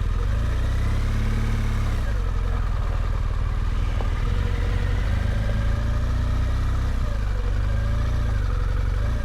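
BMW GS motorcycle running at low speed while pulling in to park, a steady low rumble with faint rises and falls in pitch.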